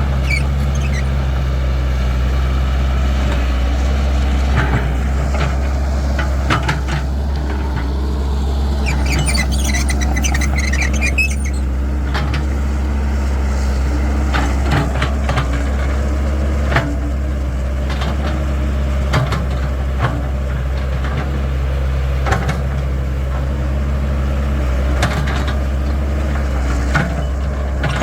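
Caterpillar 312 excavator's diesel engine running steadily while it digs and loads soil, with scattered knocks and clanks from the bucket and a high squeal about ten seconds in.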